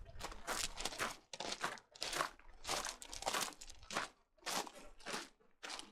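Footsteps crunching on loose, gritty ground at a walking pace, about two steps a second.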